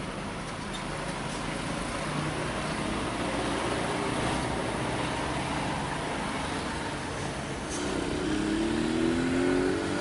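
Heavily laden truck engine labouring up a steep climb, a steady low running with road noise; over the last two seconds a rising tone builds.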